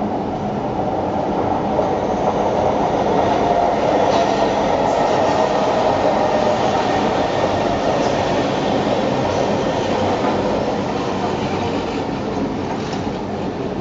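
Kawasaki-built Singapore MRT train running along the track, a steady loud rumble with clickety-clack and a faint wheel squeal that swells in the middle and eases toward the end.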